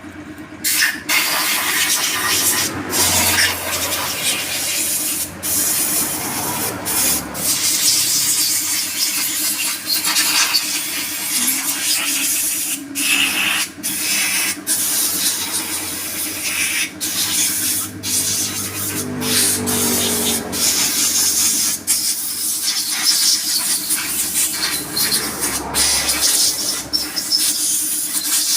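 Repair-work noise: steady scraping and rubbing with frequent sharp clicks, over a faint steady hum.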